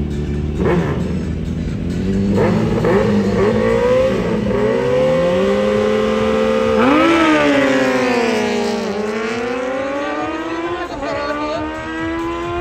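Two inline-four superbikes, a Kawasaki ZX-10R and a Suzuki GSX-R1000R, accelerating hard down a drag strip. Engine pitch climbs and drops back with each upshift, then sweeps downward as they pass about seven seconds in.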